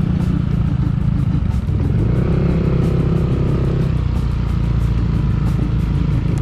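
Motorcycle engine running steadily while riding on a rough road, with a low rumble and light clatter. A higher steady hum joins for about two seconds partway through.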